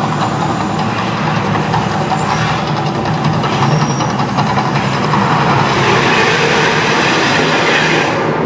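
Mirage Volcano show eruption effects: a loud, steady rumble with a rushing hiss over it, growing louder about two thirds of the way through.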